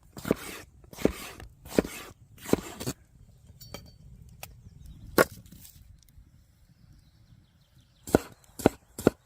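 Knife chopping food on a wooden cutting board: four even strokes, then a pause with a single stroke, then quicker chopping starting near the end.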